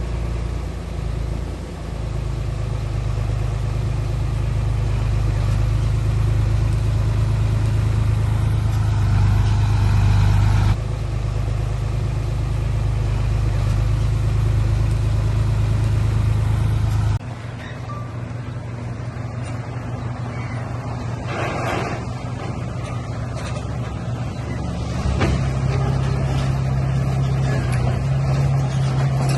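Diesel engine of heavy earthmoving machinery running with a steady low drone, which changes abruptly twice: at about 11 seconds and about 17 seconds. Short bursts of noise come in over it near the end.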